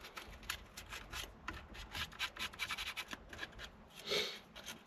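Steering wheel rim being hand-sanded with fine 240-grit sandpaper: a run of quick, uneven rubbing strokes, one a little louder about four seconds in.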